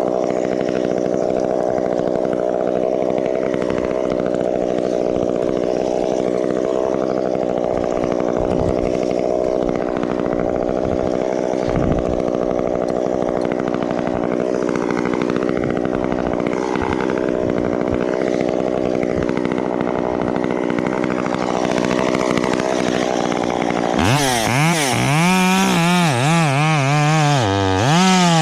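Chainsaw engine running at a steady speed, then about four seconds before the end revved up hard, its pitch rising and falling over and over as it works.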